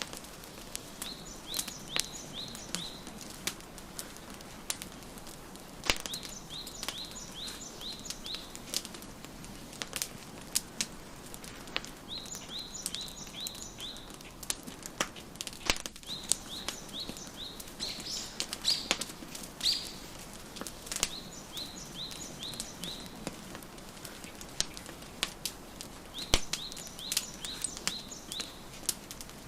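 Wood fire crackling with frequent sharp pops, while a songbird repeats a short phrase of quick, descending chirps every few seconds.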